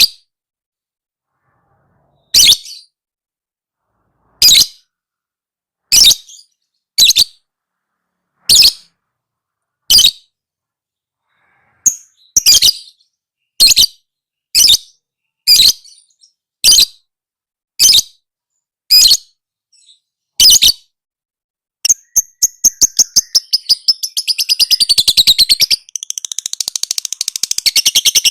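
Lovebird calling: sharp single high-pitched chirps about one a second, then about 22 s in it breaks into a rapid run of chirps that turns into dense, continuous chattering song.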